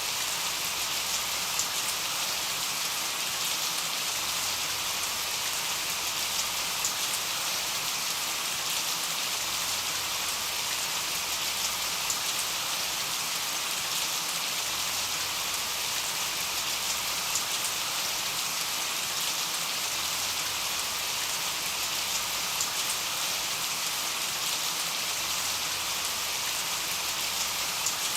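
Steady rain falling, an even, unbroken hiss of drops with faint scattered individual drop ticks.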